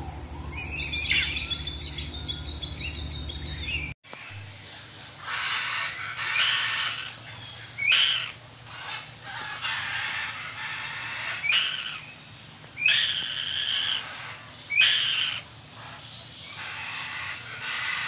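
Birds calling: a loud, short call sweeping upward in pitch is repeated about five times, a second or more apart, over a steady hiss of other bird and insect sound. The background changes abruptly about four seconds in.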